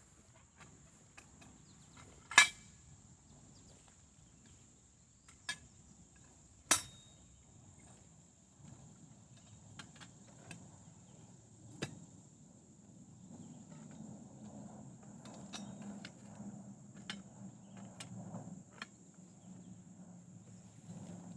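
A few sharp knocks from working a steel T-post: two loud ones about two and a half and seven seconds in, and lighter ones later. A steady high insect chirr runs underneath.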